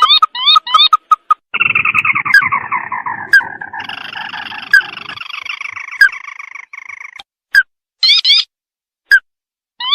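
Crake calls played as a bird-luring track: a few quick, sharp rising notes, then a long rattling trill lasting about five seconds, then single sharp notes spaced out, with a short burst of rising notes near the end.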